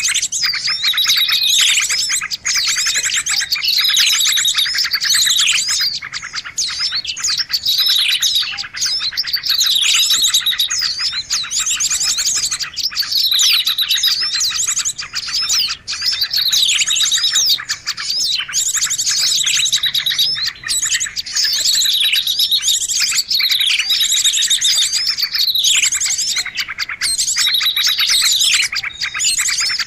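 Bird-lure recording of a noisy chorus of many small birds chirping and trilling over one another, with a run of falling whistled notes that comes back about every two and a half seconds, the sign of a looped lure track.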